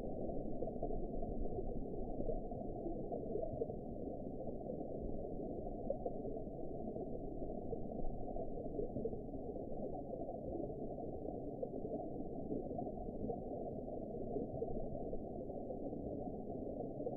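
Steady, muffled underwater ambience of the deep sea: an even low rushing noise with no higher sounds and no distinct events.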